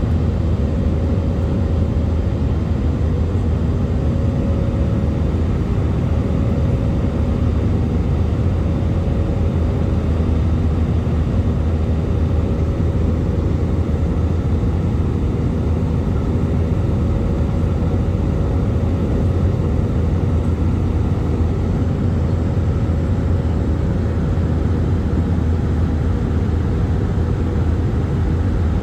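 Steady cabin drone of an Airbus A320-200 in flight: engine and airflow noise heard from a seat over the wing, heaviest in the low range. A faint higher hum fades out about two-thirds of the way through.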